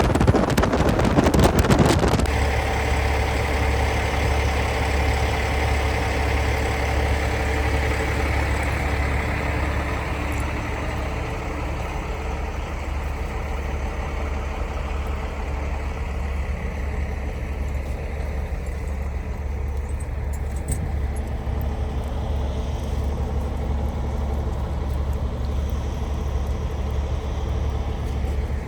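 Logging truck's diesel engine running with a steady low drone. For about the first two seconds a loud, wind-like rushing covers it.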